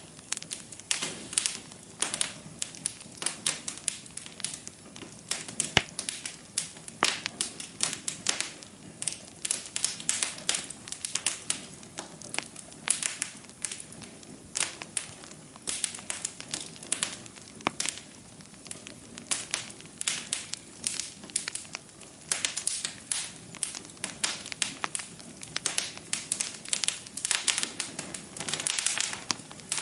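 Wood fire burning in a fireplace, crackling and popping in quick irregular clicks over a low, steady hiss of flame.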